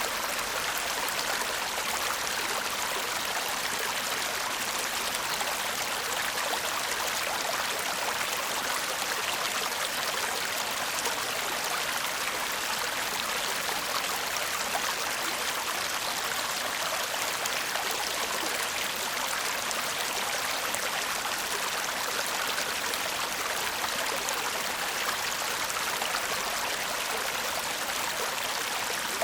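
A shallow stream babbling and murmuring steadily, water running over stones.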